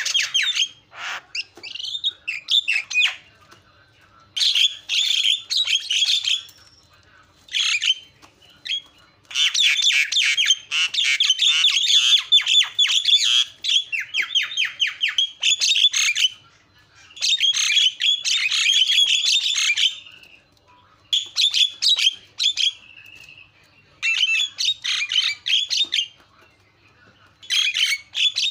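Javan myna (jalak kebo) singing in repeated bursts of rapid, squawky chattering notes, broken by short pauses, the longest phrase running about six seconds through the middle.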